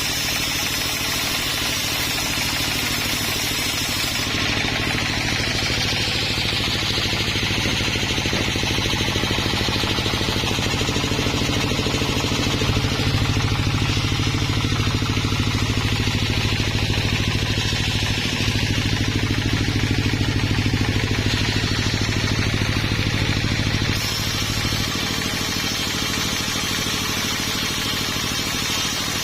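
Sawmill running steadily: an engine hum under the rushing whir of the saw at work, louder for a stretch in the middle, with a few abrupt changes in the sound.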